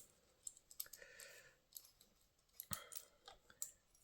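Faint, irregular small clicks and taps of hand tools and small metal parts being handled, the sharpest about two and three-quarter seconds in.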